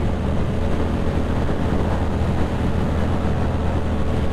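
Ducati Monster 620's V-twin engine running steadily at cruising speed, heard from the rider's helmet with wind rush over the microphone.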